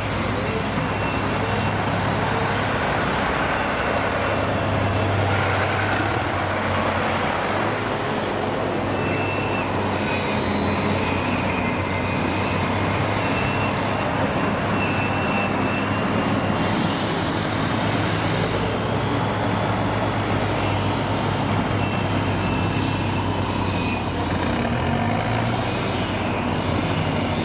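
Heavy diesel vehicle engine running steadily at a low, even pitch, with a brief hiss about two-thirds of the way through.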